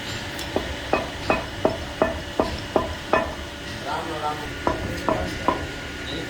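A run of sharp metallic taps, about three a second, each with a brief ring. A rattle of smaller clinks follows, then a few slower taps near the end.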